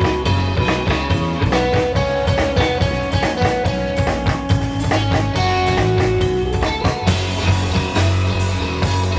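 Surf-rock band playing live: an electric guitar carries the melody over bass and a drum kit keeping a steady beat. About seven seconds in, the sound brightens as the drums fill out the top end.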